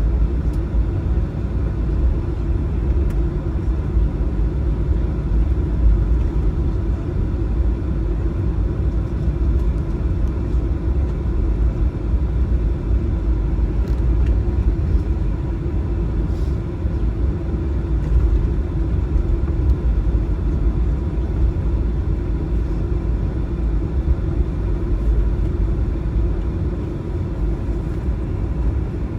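Steady low cabin rumble of a Boeing 737-900 taxiing on the ground, its engines at idle, heard from a passenger seat.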